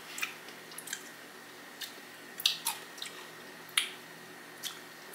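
Close-miked chewing of crunchy Flamin' Hot Cheeto–coated fried pickle bits: a scatter of short, crisp crackles and wet mouth clicks every half second to a second, the loudest about two and a half and almost four seconds in.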